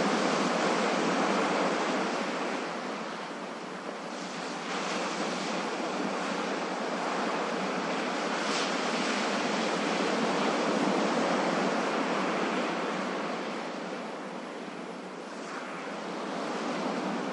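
Ocean waves breaking and washing in as a continuous rushing surf that slowly swells and eases, with two softer lulls.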